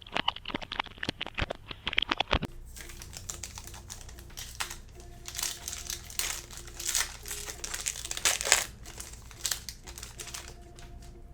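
Trading-card packaging being opened and handled. A fast run of crackling clicks in the first couple of seconds, then intermittent rustling and swishing of wrappers and cards.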